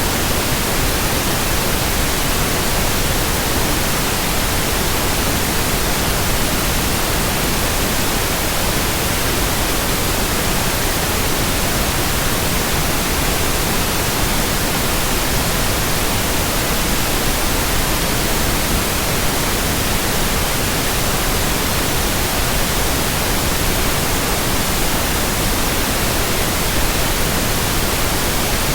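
Continuous white noise: an even, static-like hiss across all pitches, steady in level, with no tone, rhythm or change.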